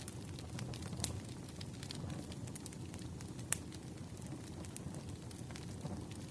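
Wood fire crackling: a steady low rumble of burning logs with irregular sharp pops and snaps, one louder pop about three and a half seconds in.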